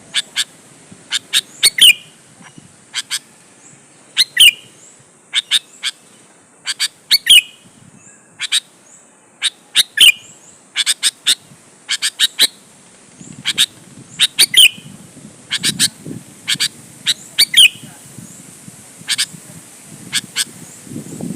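Sooty-headed bulbul (kutilang) calling vigorously: clusters of short, sharp notes repeated every couple of seconds, each group carrying a bright note that slides down in pitch.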